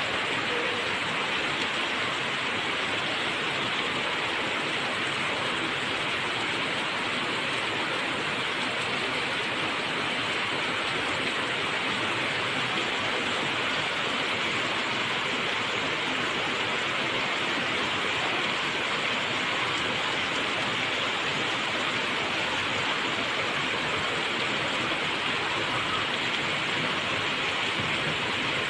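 Steady, even rain falling, a continuous hiss with no distinct drops or gusts standing out.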